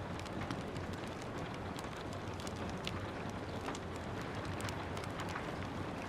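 Steady rain with scattered sharp crackles and pops from a wood fire burning in a fireplace, the crackles coming irregularly several times a second.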